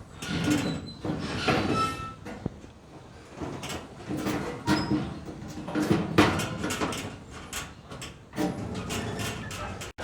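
Metal parts scraping and clanking in irregular bursts as they are shifted and handled on a truck bed, with short sharp knocks and a few brief ringing squeaks.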